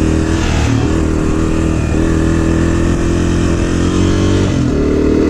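Dirt bike engine running steadily while being ridden, its pitch dipping briefly about two seconds in and stepping up near the end.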